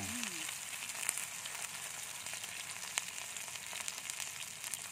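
Batter-coated cá linh (small Mekong floodwater-season fish) frying in hot oil in a pan: a steady high sizzle with scattered crackling pops.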